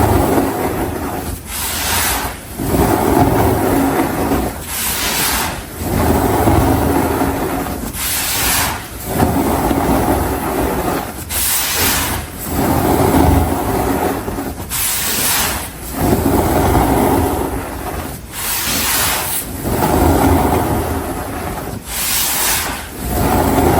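Dry baking soda powder being pressed and rubbed by hand, a crunchy, rustling noise that comes in repeated strokes about every three to four seconds, each opening with a short hiss.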